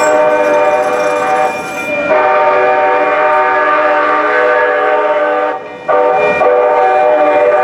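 Train horn blowing loud, sustained blasts of a multi-note chord, broken by two short gaps about one and a half seconds and five and a half seconds in. It is sounded for a grade crossing.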